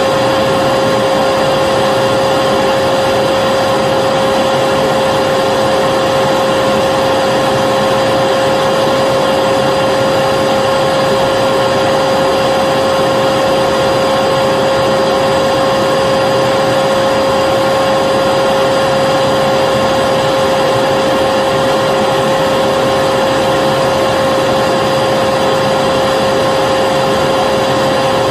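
Vacuum cleaner running steadily: a constant rushing of air with a steady motor whine held at one pitch.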